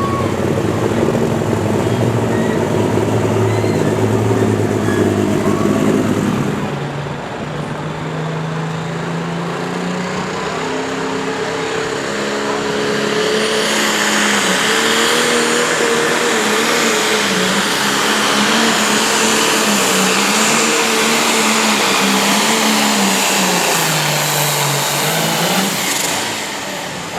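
Competition pulling tractor's engine running hard under load on a pull. About seven seconds in it drops back, then its pitch climbs and wavers with a high whistle over it, and it falls off near the end.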